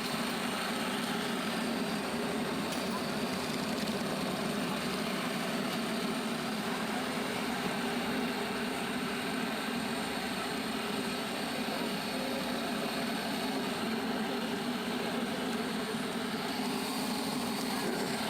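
A steady mechanical drone, like an engine running, that holds at an even level without change.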